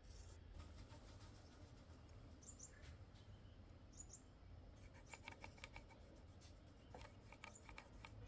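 Near silence: faint outdoor ambience with a few faint bird chirps, and a run of quick faint clicks and chirps over the second half.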